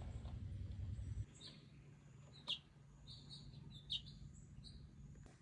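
Faint birds chirping: short, high chirps several times over a low rumble that drops away about a second in.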